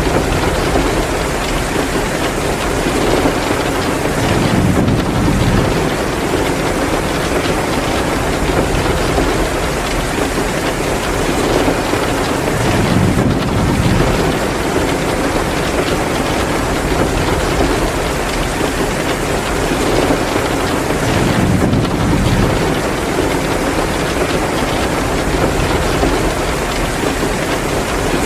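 Heavy rain pouring steadily, with a low rumble that swells and fades about every eight seconds.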